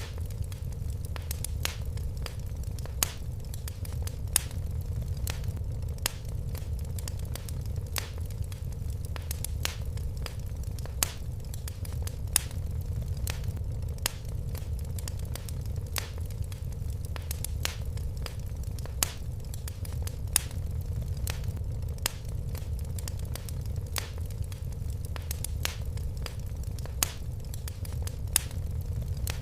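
Fireplace fire crackling: a steady low rumble of the flames with frequent sharp pops and snaps.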